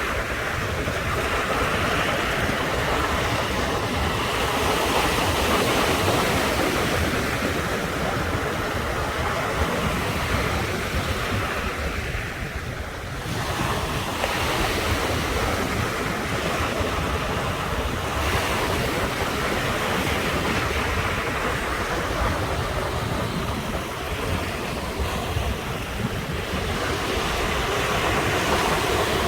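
Sea surf: waves washing onto the shore in a continuous rush that swells and eases, with a brief lull about halfway through. Wind buffets the microphone, adding a low rumble.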